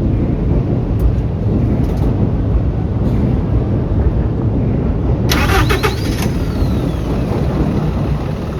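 City bus diesel engine starting up and running with a heavy, steady low rumble. About five seconds in, a sharp hiss with rapid rattling lasts about a second, followed by a faint falling whine.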